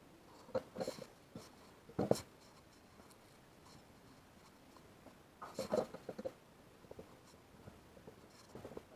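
Scattered clicks and knocks from parts and tools being handled during refrigerator repair work. There is a cluster about half a second in, a sharp knock about two seconds in, and a busier cluster around five and a half seconds.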